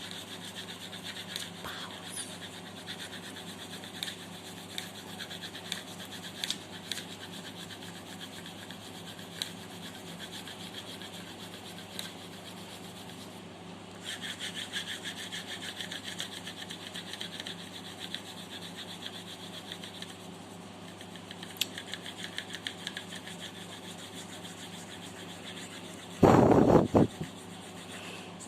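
Graphite pencil scratching across paper in continuous sketching and shading strokes, pausing briefly about halfway through. Near the end there is a short, much louder noise lasting about a second.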